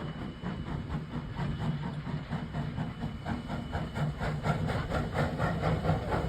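Baldwin 2-8-0 steam locomotive working under way: a steady low rumble with a fast, even beat of about four or five strokes a second.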